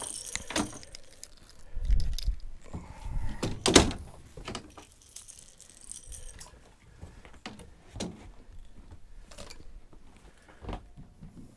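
Scattered knocks, clunks and light rattles of fishing gear being handled in a boat, with one loud sharp knock about four seconds in.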